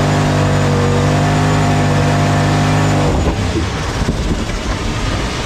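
Turbocharged LS V8 race car engine held at steady high revs. About three seconds in, the steady note breaks into a rough, uneven roar.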